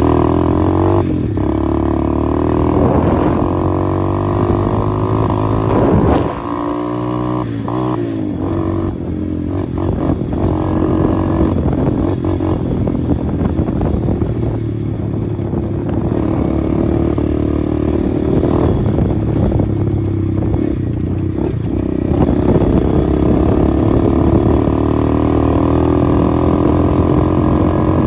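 125cc pit bike engine running as the bike is ridden, its pitch rising and falling with the throttle. The engine drops off briefly about six seconds in, then pulls again steadily.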